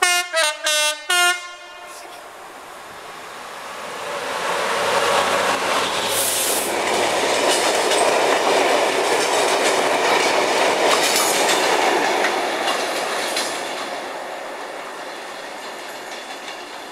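A Class 66 diesel freight locomotive gives four short blasts on its horn, then passes hauling a long train of tank wagons. The engine's rumble is followed by the steady clatter of the wagon wheels over the rail joints, swelling to a peak and fading as the tanks run away.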